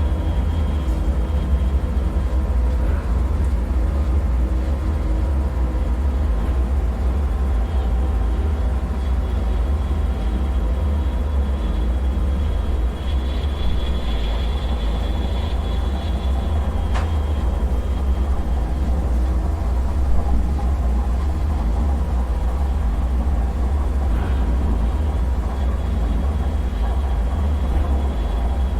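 Dark bunker ambience: a steady, deep low rumble with faint high tones held over it, and a single sharp click about seventeen seconds in.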